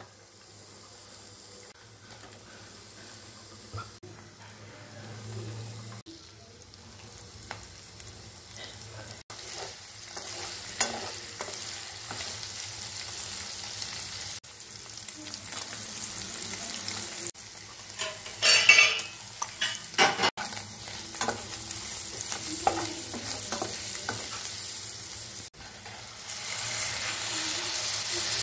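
Onions, capsicum and paneer sizzling as they fry in oil in a nonstick kadai, stirred with a wooden spatula that scrapes and knocks against the pan now and then, loudest about two-thirds of the way in. The sizzle grows louder toward the end.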